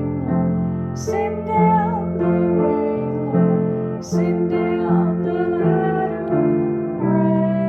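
Electric keyboard playing slow, held chords for a gospel worship song, changing chord about every second.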